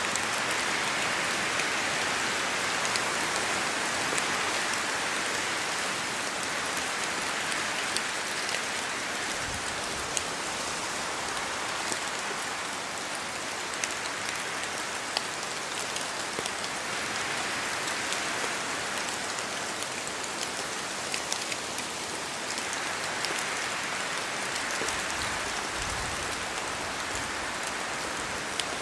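Steady rain falling through forest trees, with many separate drops ticking on leaves. A soft whoosh of wind in the branches swells and fades a few times.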